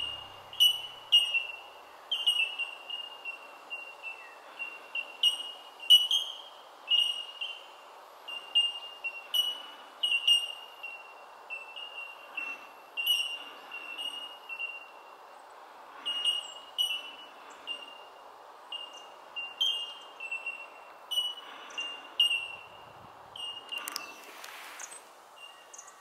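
Birds calling in a long series of clear, ringing single notes of nearly the same pitch, about one or two a second, over a steady outdoor hiss.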